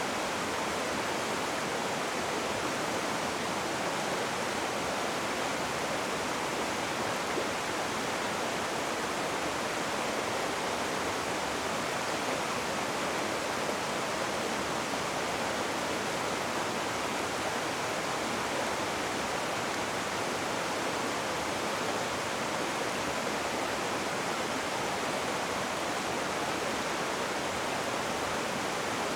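Rushing river water: a steady, even rush of turbulent flow with no breaks.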